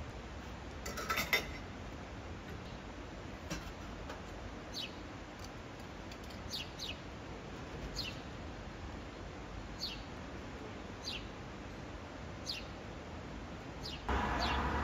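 A small bird calling: short, high, falling chirps repeated every second or two over a steady low background rumble. There is a brief clatter about a second in, and a louder steady noise comes in just before the end.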